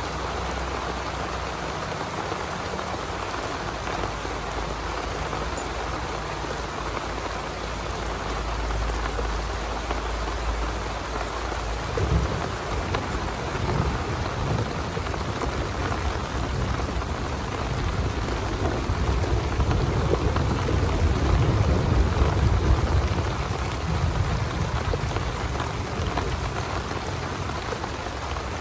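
Heavy rain falling steadily. About twelve seconds in, a long low rumble of thunder sets in, swells for about ten seconds and eases off near the end.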